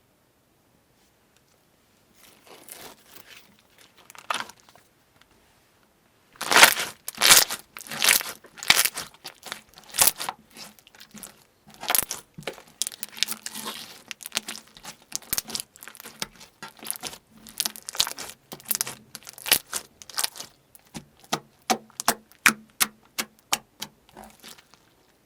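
Slime being squeezed and pressed by hand. After a near-silent start it makes faint crackles, then from about six seconds in a dense run of irregular sharp pops and crackles.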